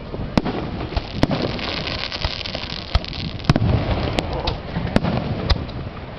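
Fireworks display: about ten sharp bangs of bursting shells at irregular intervals, some close together. Between about two and four seconds in, a crackling hiss of crackle-effect stars runs under the bangs.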